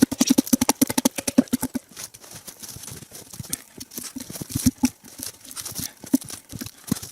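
Rapid, irregular knocks and crunches of logs and packed snow being handled as one log is set on top of another, busiest in the first two seconds.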